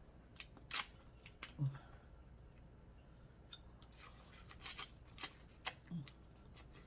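Crab leg shells being cracked and snapped apart by hand while eating: a series of sharp, separate cracks and clicks with some rustling in between. There are two brief hummed "mm"s.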